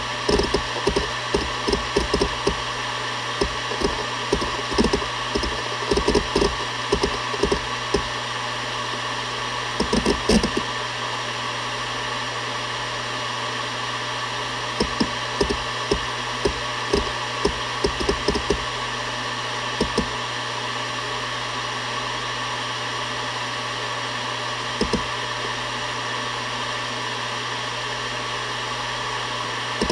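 Seagate Barracuda ES.2 ST31000340NS 7200 rpm hard drive spinning with a steady hum and whine, its heads seeking with rapid, irregular clicks and ticks. The seeks are busy for about the first ten seconds, then come only in scattered bursts.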